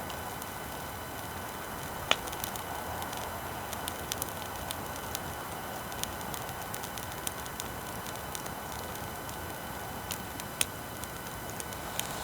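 Wood bonfire crackling, with irregular sharp pops and snaps, the loudest about two seconds in and again near the end, over a steady hiss of recording noise.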